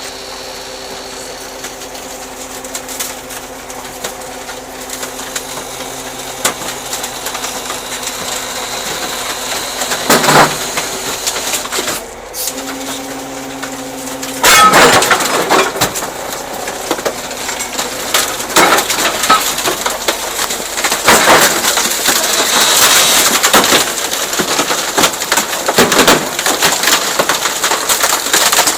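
Garbage truck's hydraulic compactor press running with a steady hum, then crushing its load with repeated cracking and crunching that grows loudest from about halfway through.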